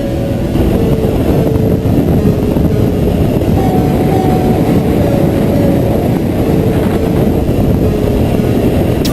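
Honda CB1000R motorcycle's inline-four engine running on the road under a dense, steady wash of riding noise, which grows a little louder about half a second in.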